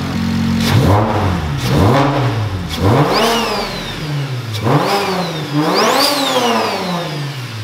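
Single-turbo BMW N54 straight-six being blipped in free revs, about five quick rises and falls in engine speed from idle. A high turbo whistle rises and falls with the last three blips.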